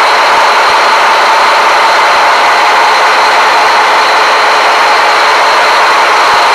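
Scania marine diesel engines running steadily in a ship's engine room, loud and close, with a constant high whine riding over the engine noise.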